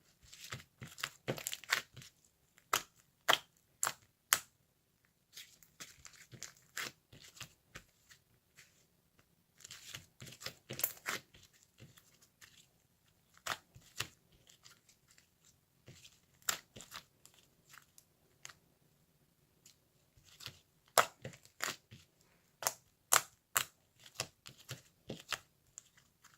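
Handling noises: irregular clusters of sharp clicks, taps and crinkles with short quiet gaps between them.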